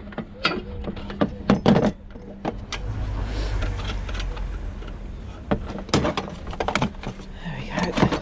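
Metal clinking and knocking while parts of a small gas boiler are worked loose by hand, a string of sharp clicks and clunks. A low rumble runs for a couple of seconds in the middle.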